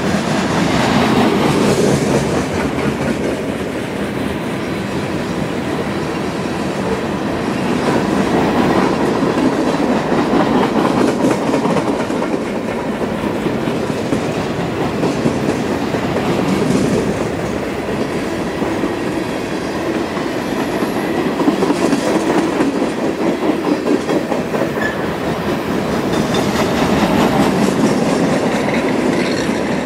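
Cars of a CSX manifest freight train (boxcars, covered hoppers and gondolas) rolling past close by: a steady rumble of steel wheels on the rails with a repeated clickety-clack over the rail joints. The rumble swells and eases every several seconds as the cars go by.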